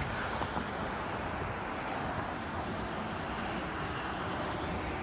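Steady rushing noise of wind and road during a bicycle ride, with no distinct knocks or tones.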